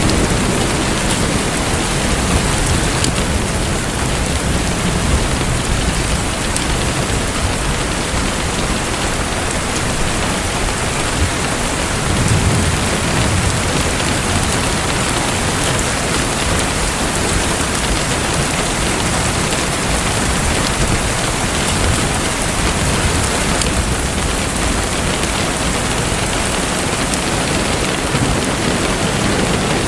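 Steady, even rush of falling or splashing water, with a low rumble that swells briefly about twelve seconds in.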